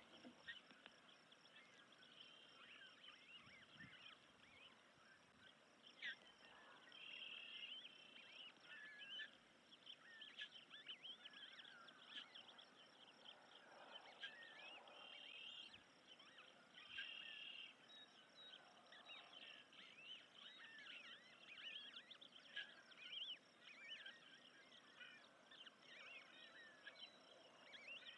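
Faint outdoor bird calls: many short, high chirps scattered throughout, with a few longer thin calls.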